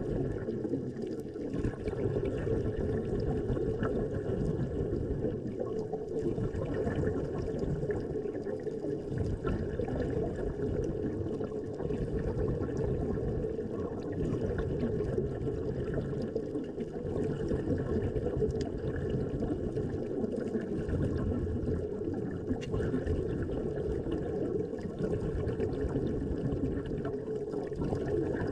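Steady, muffled rush of water, strongest in the low range.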